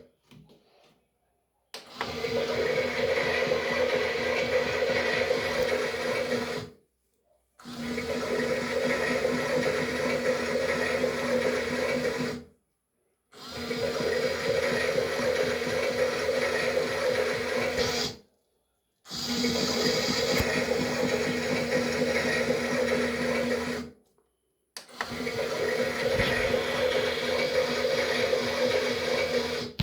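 Toy washing machine running a wash: its small electric motor hums while the drum churns water. It runs in stretches of about five seconds, each broken by a short pause, as the drum stops and starts again.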